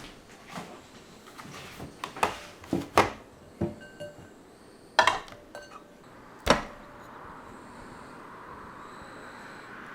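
Kitchenware being handled: a string of knocks and clinks, the loudest about three, five and six and a half seconds in, then a steady hiss, over soft background music.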